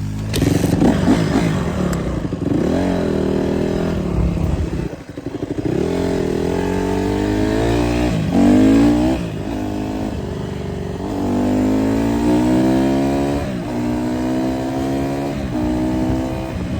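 Dirt bike engine revving hard while riding, its pitch climbing and falling again and again as the rider works the throttle and shifts.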